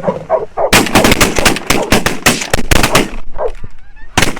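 A volley of shotgun blasts from several waterfowl hunters firing at once: a dozen or so shots in quick, overlapping succession starting under a second in and lasting about two seconds, then one more shot near the end.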